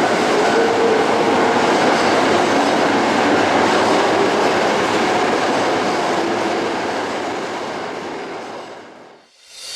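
Keisei electric train running on the rails, a steady noisy run that fades out near the end.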